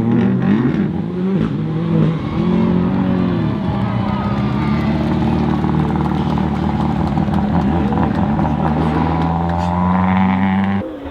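Rally car engine at full throttle: a few sharp cracks in the first two seconds, then the revs dip and rise again around two seconds in, followed by a long, slowly climbing note as the car accelerates. The sound cuts off abruptly shortly before the end.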